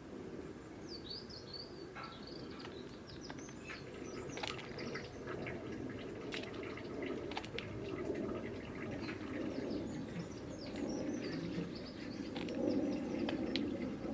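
Garden birds chirping in many short, quick, falling chirps, with scattered sharp ticks, over a steady low background rumble that grows louder near the end.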